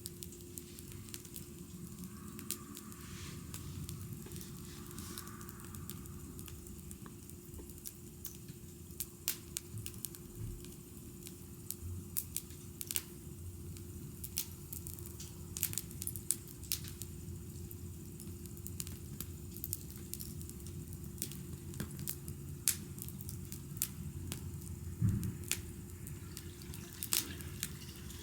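Wood fire crackling, with scattered sharp pops and snaps at irregular intervals over a steady low rumble.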